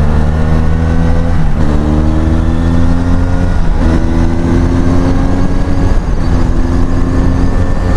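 Benelli Leoncino 500's parallel-twin engine through an aftermarket exhaust, accelerating hard: the pitch climbs in each gear and drops back at three upshifts, heard over wind on the microphone while riding.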